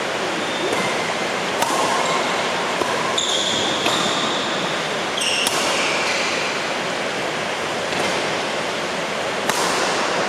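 Heavy rain making a steady hiss. Over it come a few sharp racket-on-shuttlecock hits and short high squeaks of shoes on a badminton court.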